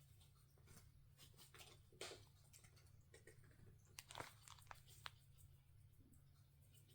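Faint, scattered crunchy clicks of a cat chewing at itself while grooming, a few at a time, the clearest about two and four seconds in.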